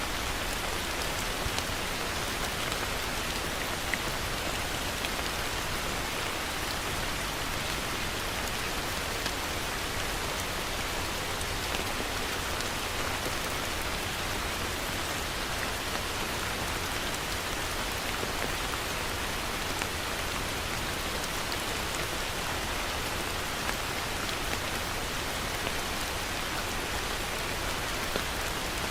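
Heavy rain falling steadily: a dense, even hiss of rain on surfaces, with a few sharper individual drop hits scattered through it.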